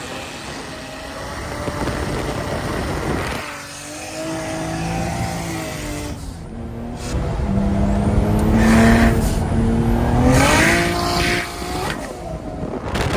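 Drift cars on track: engines revving up and down under heavy throttle, with tyre squeal. The loudest stretch comes in the second half, where one engine note climbs steeply. The sound changes abruptly a few times.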